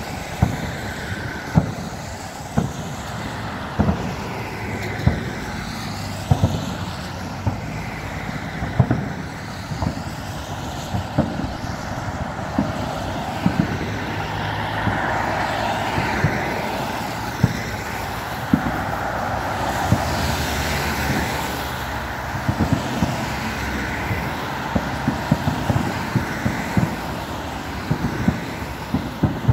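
Distant fireworks going off in a salute: irregular booms, often several a second apart, over a steady hiss of traffic on a wet road that swells in the middle as cars pass.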